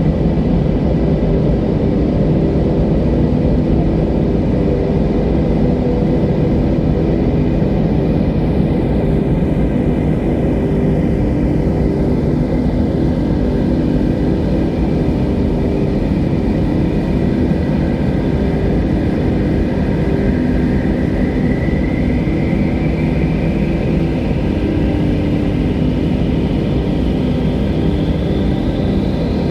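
Steady, loud rushing wind with a deep drone underneath. A hollow whistling sweeps down in pitch through the first half, and a thin whistle climbs slowly in pitch from a little past halfway.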